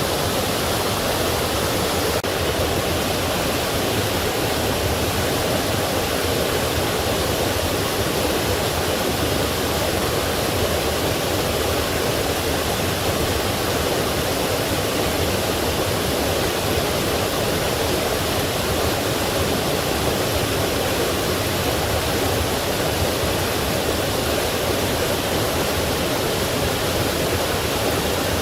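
Forest stream and small waterfall flowing, a steady rushing of water without a break.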